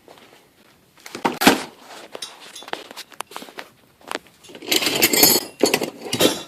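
Loose garage door hardware, such as rollers and hinges, clinking and rattling as it is handled and laid out, with irregular knocks and a louder stretch of rattling past the middle.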